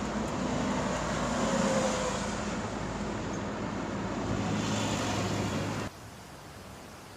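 Motor vehicle road noise: a steady engine hum under a rushing noise, cutting off abruptly about six seconds in to a faint steady hiss.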